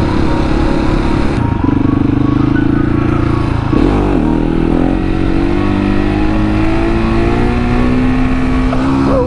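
Husqvarna 701 supermoto's single-cylinder engine running at road speed. About four seconds in the pitch dips and jumps, as at a gear change, and then climbs steadily as the bike accelerates.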